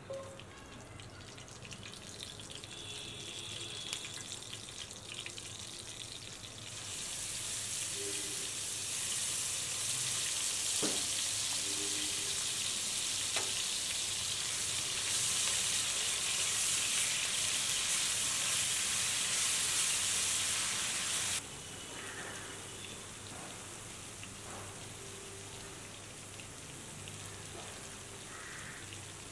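Food sizzling in hot oil in a cooking pan: a steady hiss that grows louder about seven seconds in and drops off sharply about twenty-one seconds in, with a few faint clicks.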